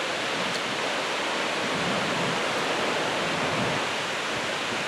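Steady rush of heavy surf breaking on a sand beach, the swell raised by an approaching typhoon.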